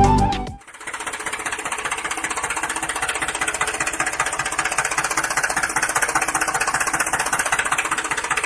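Small electric toy motor of a DIY model running steadily with a fast, even rattle; it starts just under a second in and cuts off near the end.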